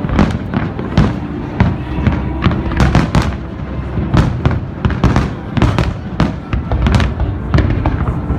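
Large fireworks display: rapid, overlapping bangs and crackling bursts, several a second, over a continuous low rumble.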